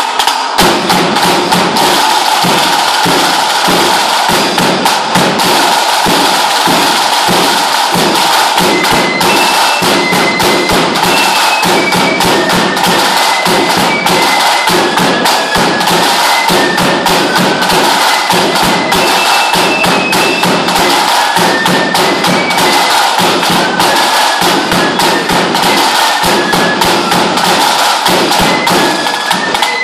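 Lambeg drum beaten with two cane sticks in a fast, unbroken rattle of strokes, starting right at the beginning. A high melody of held, stepping notes plays over it.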